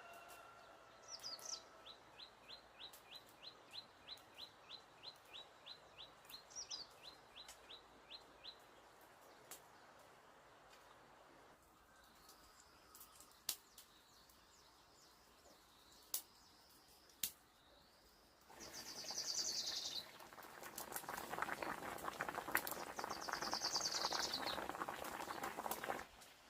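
Small birds calling: a steady run of short high chirps about twice a second, with occasional quick trills. About two-thirds of the way through, a louder rough, rasping noise starts and runs with the bird trills until it stops suddenly near the end.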